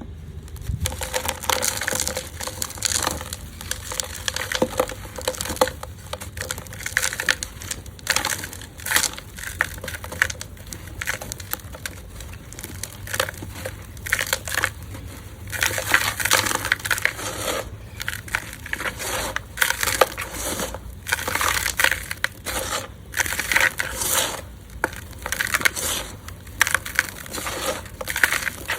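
Hands crumbling and crushing lumps of gritty red dirt, dry and damp, in a run of irregular crunches and gritty crackles.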